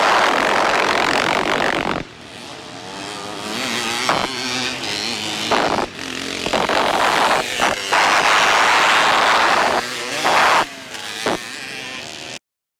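Vintage motocross motorcycles racing on the track: engines revving and passing, with the pitch rising and falling and the level dropping and jumping several times. The sound cuts off abruptly near the end.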